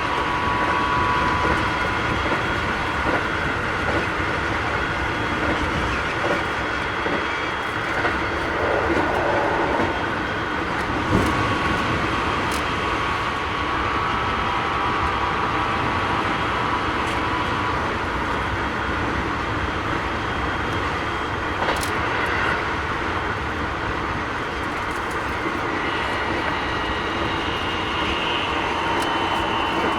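Interior running sound of a Keikyu 1000 series electric train fitted with a Mitsubishi IGBT inverter: steady wheel-and-rail noise with occasional rail-joint clicks, and a few steady whining tones above it. This trainset runs a little noisier than others of its class.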